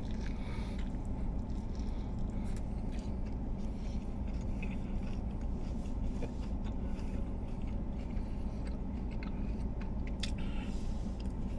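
Someone chewing and biting into a steak-and-bacon sub sandwich, with scattered small mouth smacks and clicks over a steady low hum.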